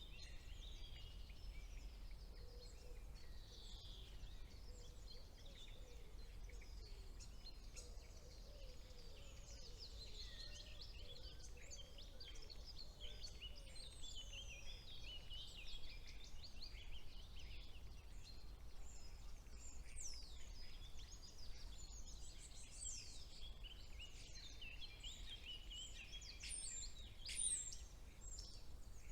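A chorus of several woodland songbirds singing at once in spring: many overlapping high chirps, trills and sweeping whistled notes, with a faint lower warbling note in the first half and a steady low background rumble.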